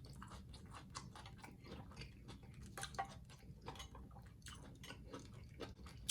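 Faint chewing of food, with irregular small mouth clicks and smacks, one a little louder about halfway through.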